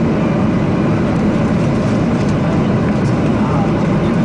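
Steady aircraft cabin noise: the even roar of the engines and rushing airflow heard from inside the aeroplane.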